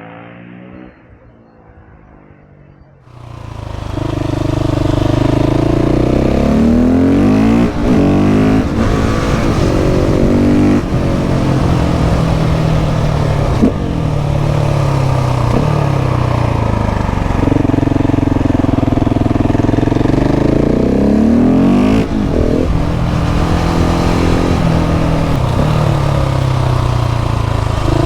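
KTM 690 SMC R's single-cylinder engine with a Leo Vince exhaust under way. It comes in loud about three seconds in, and its revs climb and drop again and again through acceleration and gear changes.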